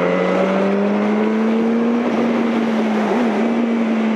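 Yamaha R1 inline-four engine pulling steadily under acceleration while riding, its pitch climbing slightly, with a brief wobble about three seconds in and easing off near the end, over wind noise.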